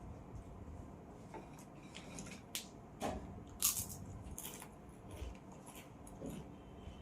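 A mango being eaten: irregular short biting and chewing noises, the loudest a little after halfway through.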